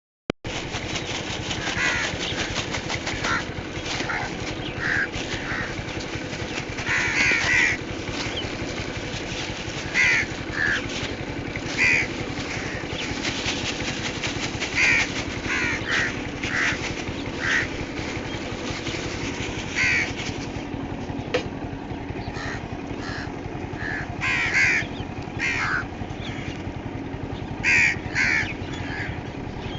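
Birds calling: short calls, often two or three in a row, every second or two over a steady background noise.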